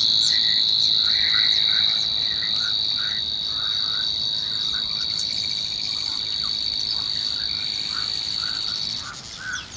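A loud, steady, high-pitched insect buzz that cuts off near the end, with small birds chirping softly beneath it.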